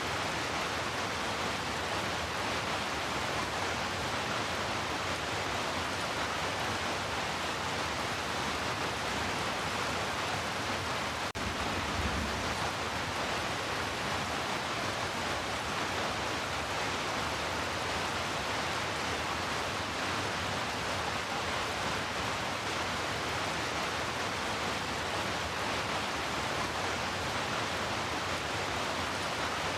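Heavy rain falling as a steady, even hiss. A brief low thump sounds once, about twelve seconds in.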